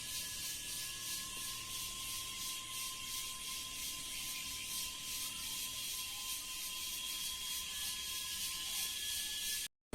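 Insects calling in a chorus: a rhythmic pulsing buzz, several pulses a second, over steady high-pitched singing tones. It cuts off abruptly just before the end.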